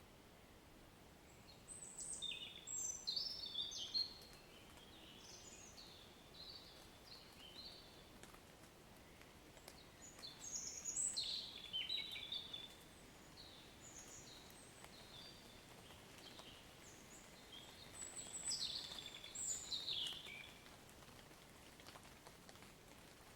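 A songbird singing three phrases of quick, varied high chirps a few seconds apart, over a faint steady hiss.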